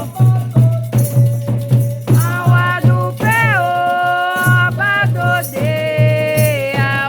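Candomblé chant: singing with long held, sliding notes over a steady low beat about two to three times a second and a shaken rattle.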